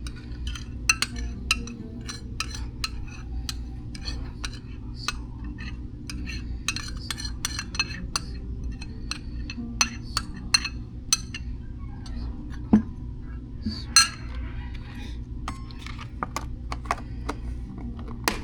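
Cutlery and dishes clinking: many small sharp clicks and knocks of metal on plates and containers, a few louder ones, over a steady low room hum.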